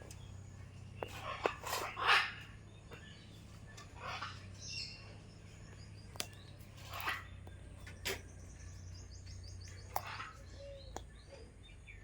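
Pet parrot giving short, scattered calls and squawks, with a rapid run of high repeated notes a few seconds before the end. A steady low hum runs underneath.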